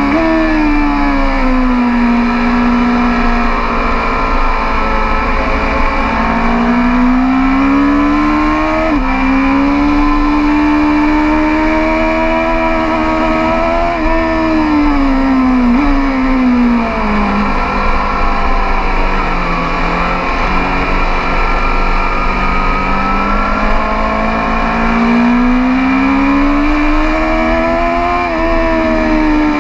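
BMW S 1000 RR's inline-four engine on a track lap. The pitch climbs and falls as it is revved hard and shut off for corners, with sudden steps in pitch at gear changes, several times.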